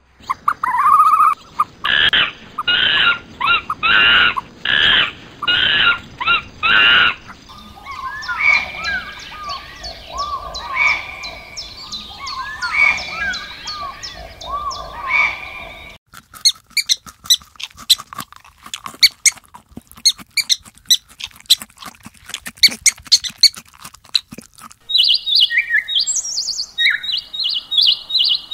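Birds calling and chirping. A run of loud, evenly repeated calls is followed by quicker short chirps, then a stretch of sharp clicking, and chirps again near the end.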